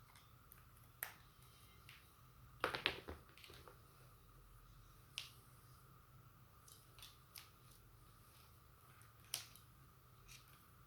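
Scattered small clicks and taps of objects being handled, a quick cluster of them about three seconds in being the loudest, over a faint steady electrical hum.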